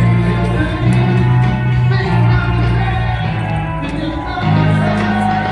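Live band music: loud bass notes changing pitch every second or so under a singing voice.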